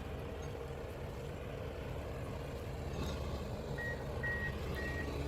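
A heavy machine's engine running steadily with a low rumble; about four seconds in, a reversing alarm starts beeping, about two beeps a second.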